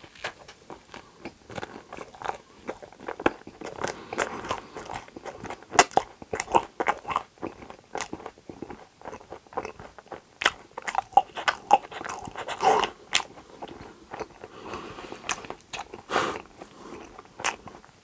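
Biting into and chewing a cream-filled waffle sandwich: irregular crunches and sharp chewing clicks.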